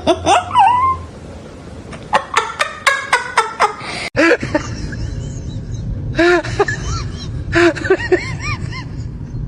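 Short animal calls, each rising and falling in pitch, repeated in quick groups, with an abrupt break about four seconds in.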